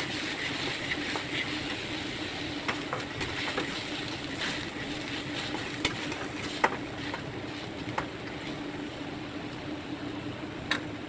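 Ground masala paste frying in oil in a wok, a steady sizzle over a low hum, while a metal spoon stirs it and scrapes and taps against the pan several times.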